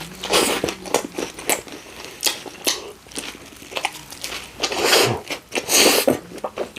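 Close-up eating of a Subway sweet onion chicken teriyaki sub: bites and chewing with many small clicks and a few louder crunchy, crinkly bursts about half a second in and again around five and six seconds in.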